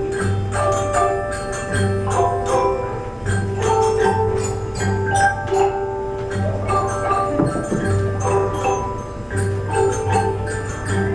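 A school instrumental ensemble playing a piece with mallet percussion such as xylophones and glockenspiels: held melody notes over a repeating bass, with frequent light strikes.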